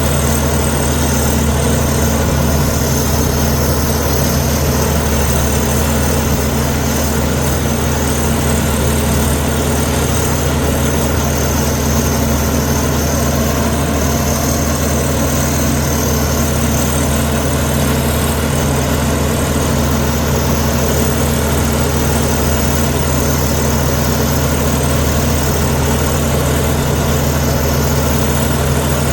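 Diesel engine of a Komatsu D61EX crawler bulldozer running steadily, a low even drone without breaks or changes in speed.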